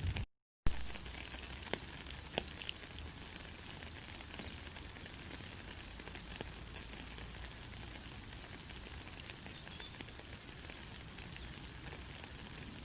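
Steady white-noise hiss for lulling a baby to sleep, with a low rumble beneath it and faint scattered crackles. It cuts out completely for about a third of a second just after the start and comes back with a sharp click.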